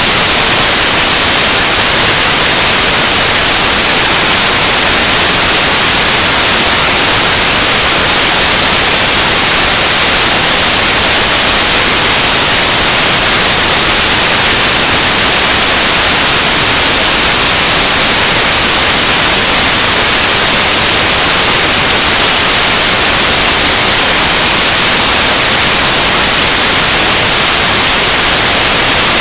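Noise music: a loud, steady wall of hiss-like static, strongest in the treble, holding without change.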